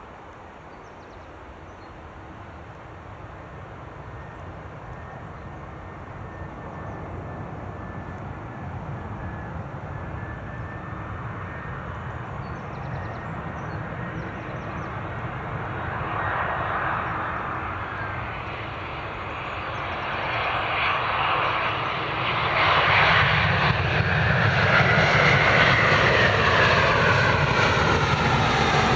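Jet airliner engines on a takeoff run, the sound building steadily as the aircraft draws near and passes. A high whine glides across the middle, and near the end several tones fall in pitch as it goes by.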